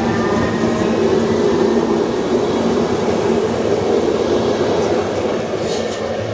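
Belgian NMBS/SNCB electric multiple unit passing close by and running away along the track: a steady rumble of wheels on the rails that eases slightly near the end.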